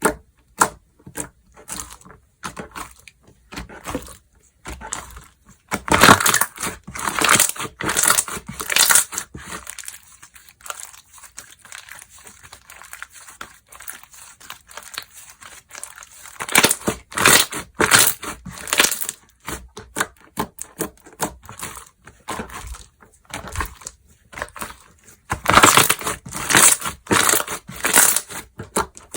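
Slime being squeezed, stretched and folded by hand, making runs of sticky clicks and crackly pops in three louder spells, with sparser clicks between.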